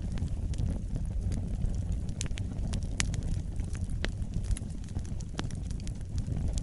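Wood fire burning in a fireplace: a steady low rumble of flames with many sharp, irregular crackles and pops, one louder pop about three seconds in.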